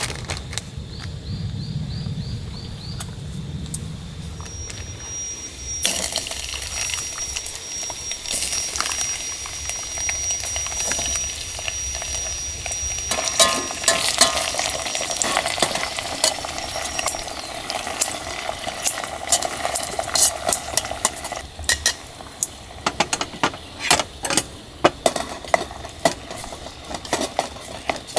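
Food sizzling in a hot pan, starting suddenly about six seconds in, with repeated clicks and taps of utensils against the pan.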